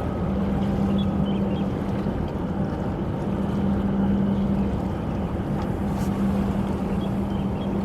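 Boat engine running steadily, with a low hum that drops out and returns every second or so.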